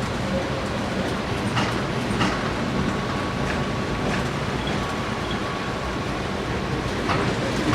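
Tram running on its rails: a steady rumble with a faint, steady high tone and a few short, sharp clicks scattered through it.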